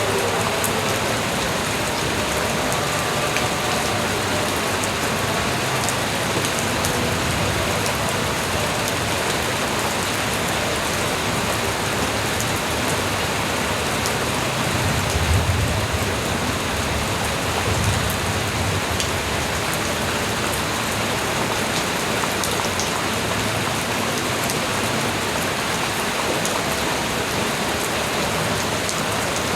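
Steady light rain falling, with scattered individual drops ticking. Twice, about halfway through, a brief low rumble rises under the rain.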